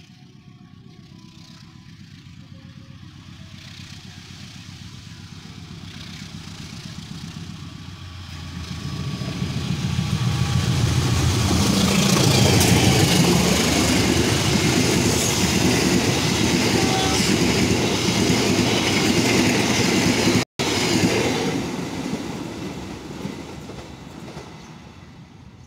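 Diesel locomotive-hauled passenger train approaching, running past loud with engine and steel wheels on the rails, then fading as it moves away. The sound drops out for an instant about twenty seconds in.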